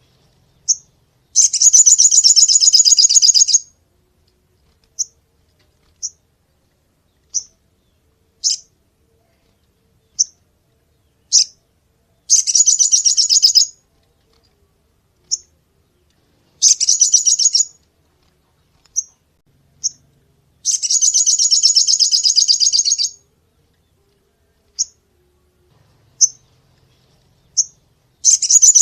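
A sogon bird singing: sharp, high single chirps at irregular intervals, broken by five longer rapid, rattling trills, each lasting one to two and a half seconds.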